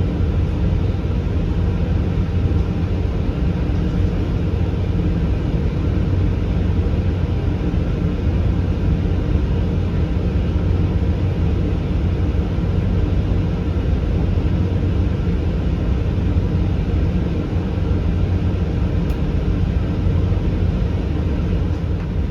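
Class 166 diesel multiple unit's underfloor diesel engines idling with a steady, even hum while the train stands at a station, heard from inside the carriage.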